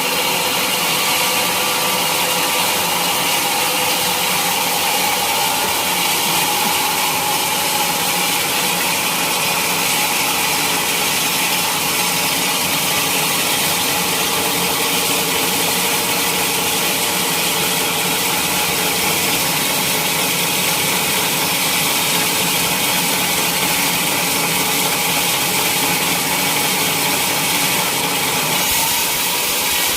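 Sawmill saw cutting steadily through a teak log, with the mill's motor running under a continuous high sawing noise.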